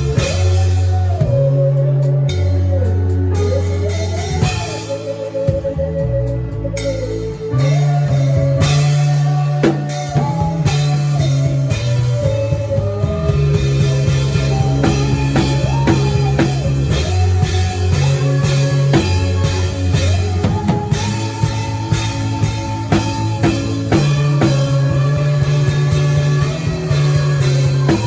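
Drum kit played along with a recorded song: a steady beat over held bass notes, guitar and a melody line.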